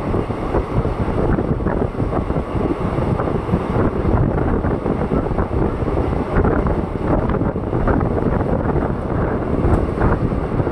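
Express passenger train running at speed, heard from the open doorway of its luggage van: a continuous rumble and rattle of wheels on the track, with wind buffeting the microphone.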